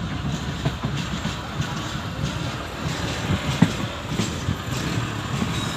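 A moving passenger train: a steady low rolling rumble with irregular rail clatter and short clicks. A sharper knock comes a little past halfway.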